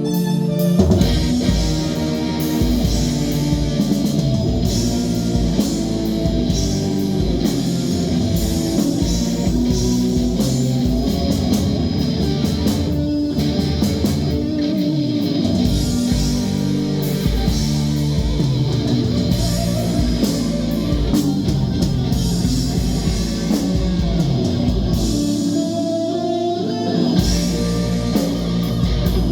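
Rock band playing live: electric guitar over bass and drum kit. A held keyboard chord gives way to the full band coming in about a second in, and the drums and bass drop out briefly near the end.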